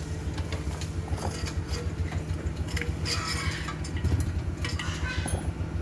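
A steady low mechanical hum, like an engine or motor running, with scattered light clicks and knocks over it.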